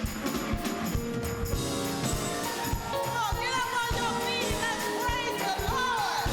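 Church gospel band playing with a steady drum beat and a jingling tambourine, with voices singing over it from about a second and a half in.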